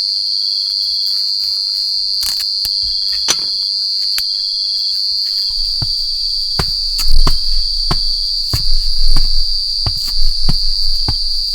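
A steady, high-pitched chorus of forest insects, crickets or similar, with a fainter pulsing chirp beneath it. From about halfway through, irregular sharp clicks and knocks join in, some of them loud.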